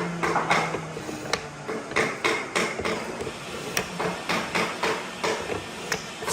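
Hammer strikes on wood: a quick, irregular run of sharp knocks, several to the second.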